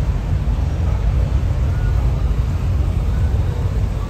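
Steady low rumble of car engines and exhausts from slow-moving cruising traffic passing close by.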